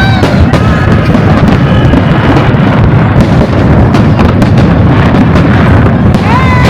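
Fireworks display in full barrage: a loud, continuous run of bursts, booms and crackles with no break.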